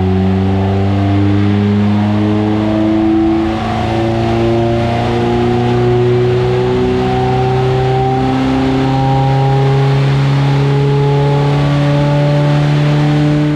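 Race pickup truck's engine running loudly under load on a rolling road, its revs climbing slowly and steadily through a dyno mapping run, with a brief dip about three and a half seconds in.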